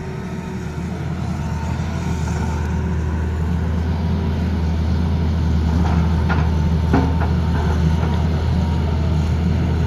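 Tata Hitachi excavator's diesel engine running steadily and growing gradually louder, with a few sharp clanks about six to seven seconds in.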